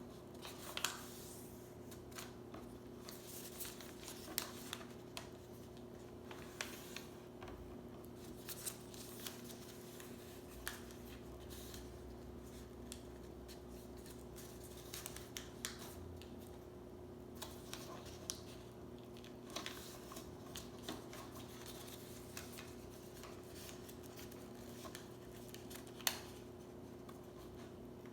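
Paper being folded by hand into a paper airplane: scattered rustles and short sharp creasing taps, with the loudest snap about 26 seconds in. A steady low hum runs underneath.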